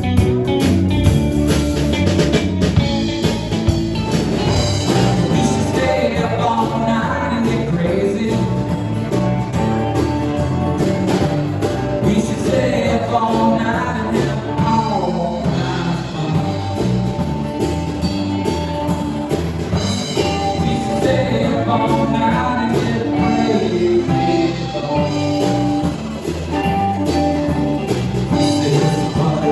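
A band playing a rock song, with a singer over guitar and drums.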